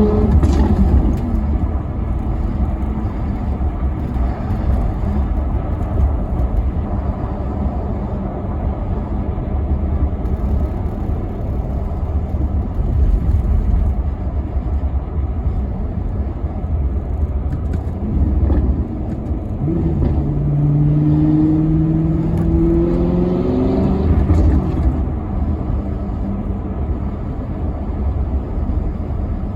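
Maserati Quattroporte Sport GT V8 being driven. The engine note peaks and drops right at the start, then gives way to a steady low rumble. From about two-thirds of the way through it pulls hard, its pitch climbing steadily for about five seconds before falling back into the rumble.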